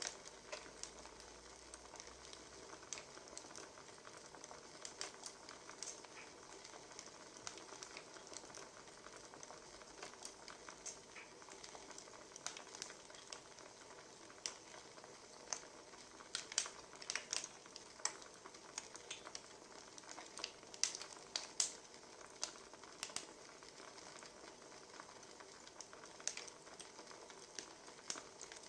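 Wood fire crackling: a soft steady hiss with irregular pops and snaps, which come thickest in two short flurries past the middle.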